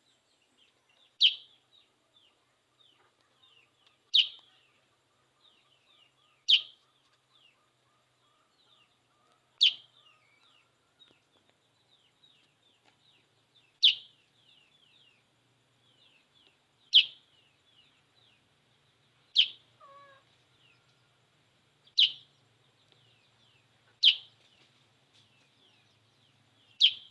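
Sooty-headed bulbul (kutilang) calling in full voice after a bath: about eleven short, sharp, high calls come every two to three seconds, with faint twittering between them.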